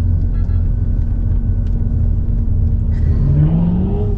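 Mercedes-Benz SL500's V8 engine running at low speed with a steady low rumble, the revs rising briefly about three seconds in.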